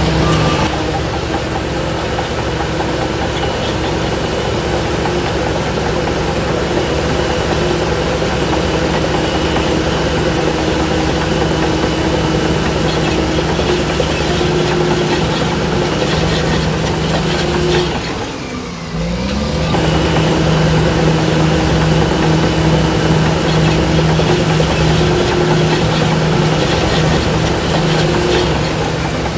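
Heavy diesel engine of earthmoving machinery running steadily. About eighteen seconds in, the engine note drops briefly and climbs back up.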